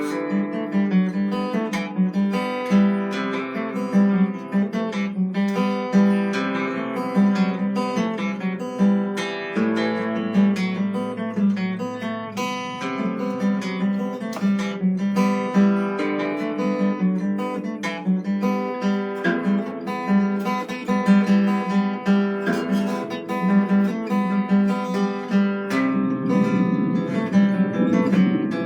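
Solo instrumental music on a plucked string instrument, many notes picked in quick succession with no pause.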